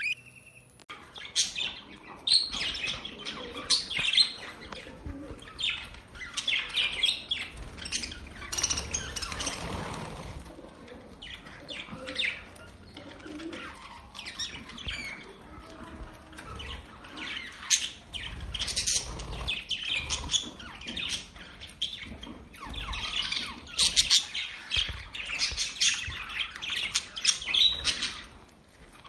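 Budgerigars chirping and chattering, a dense run of short, high chirps and warbles that keeps going with only brief pauses.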